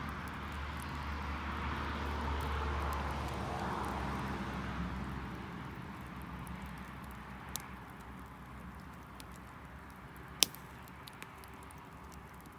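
Distant engine noise swells for the first few seconds and then fades away. After that there are a few sharp pops, the loudest near the end, typical of wood crackling in a garden bonfire.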